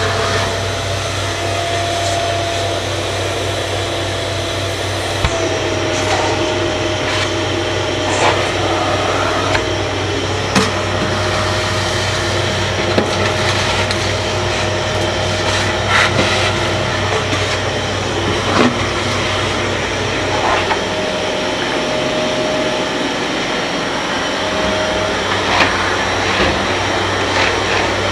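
Kärcher MV 6 P Premium wet-and-dry vacuum cleaner running steadily, with scattered clicks and knocks.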